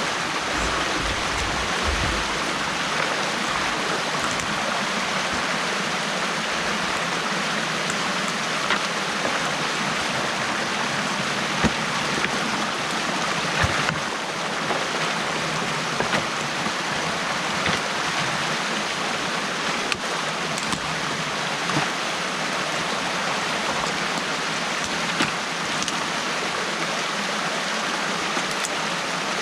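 Stream water rushing steadily through a breach opened in a beaver dam, with a few brief sharp knocks or splashes scattered through it.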